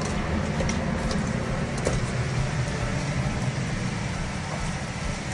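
Steady rushing noise of a rainstorm, rain and wind, with a low rumble and a few faint ticks in the first two seconds.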